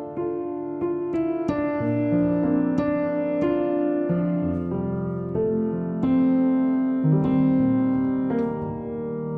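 Soft, slow piano background music, single notes and chords struck and left to ring.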